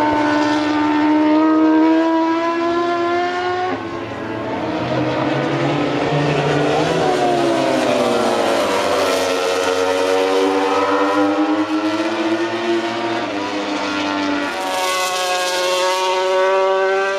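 MotoGP race motorcycle engines at high revs, the pitch climbing through the gears and dropping as the bikes slow, then climbing again, heard through a TV broadcast. A burst of hiss comes near the end.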